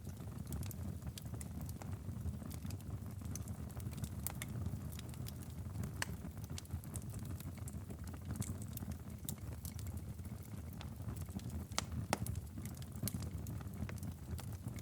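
Wood fire in a fireplace crackling and popping over a low, steady rumble, with scattered sharp pops; the loudest come about six and twelve seconds in.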